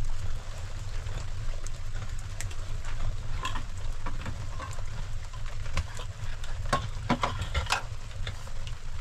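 Rain falling: a steady hiss with scattered taps of drops, which come thickest in the middle seconds, over a low steady rumble.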